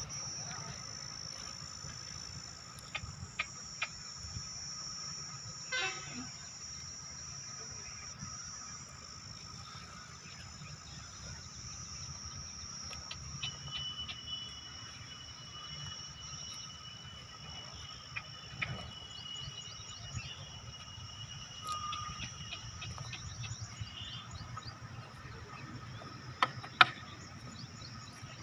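Outdoor field ambience dominated by a steady high chirring of insects, with scattered clicks, a short falling whistle-like sound and a long steady high tone partway through.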